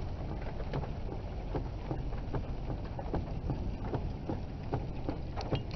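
Wind rumbling on the microphone, with irregular light knocks and taps scattered through it.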